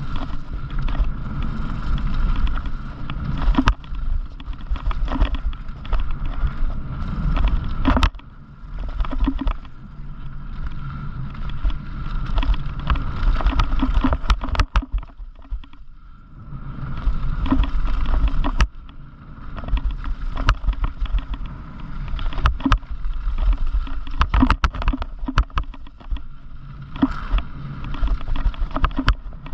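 Wind rushing over the camera's microphone as a bicycle rolls fast over a rough trail, with frequent clicks and rattles from the bike. The rush drops away briefly a few times.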